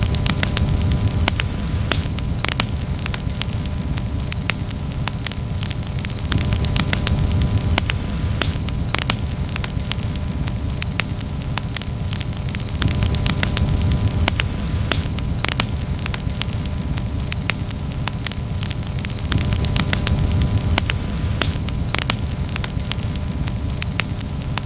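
Wood campfire burning, crackling with frequent sharp irregular pops over a steady low rumble of flame.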